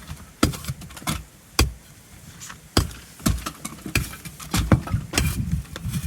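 An old door being battered and shoved loose during demolition: about a dozen sharp knocks and thuds at uneven intervals, coming closer together near the end.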